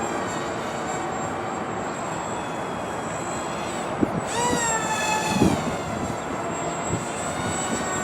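Twin electric motors of an RC flying wing, Emax 1106 8000kv motors spinning 3-inch props, whining in flight. About four seconds in the pitch jumps up, then slides back down and settles. Low thumps of wind on the microphone come and go.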